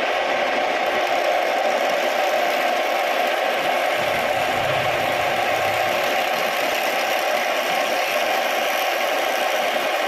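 Homemade wood lathe running steadily with a rattling, vibrating machine noise; a low rumble joins about four seconds in for some two seconds.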